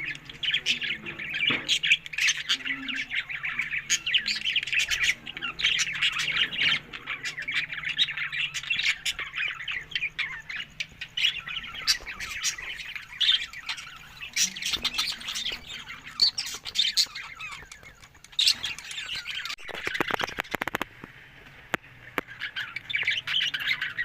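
Budgerigars chattering and warbling nonstop, a dense run of quick chirps and squawks. A brief scratchy rustle breaks in near the end.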